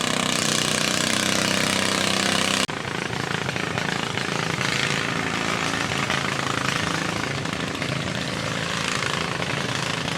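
Loud engine running steadily at high revs, with a sudden cut about a third of the way in, after which a rougher, noisier engine sound carries on.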